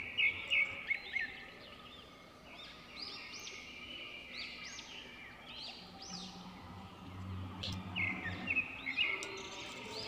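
Birds chirping in repeated quick series of short rising-and-falling notes, loudest near the start and again near the end, with a faint low hum for a couple of seconds in the middle.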